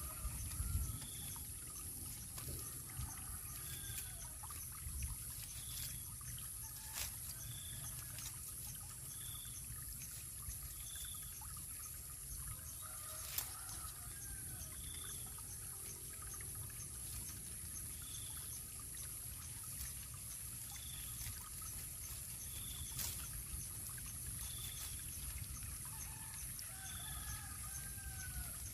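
Birds calling: a short high note repeats about every one to two seconds, with a few lower curving calls here and there, over a faint low rumble and steady hiss.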